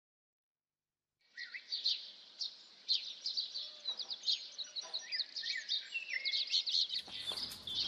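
Small birds chirping, a busy run of short high calls and quick sliding notes that begins about a second in. Near the end a fuller outdoor background with a low rumble comes in under the birds.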